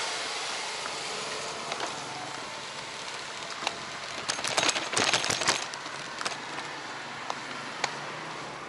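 Steady wind and road noise from a bicycle ride, with a burst of rattling clicks about halfway through, as if the bike jolts over a rough patch.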